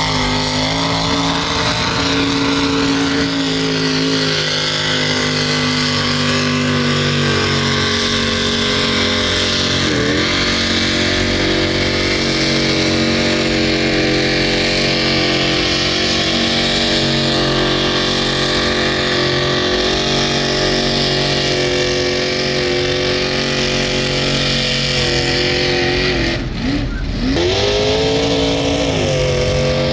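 Mud truck engine held at high revs. The revs dip and climb back briefly about ten seconds in and again near the end.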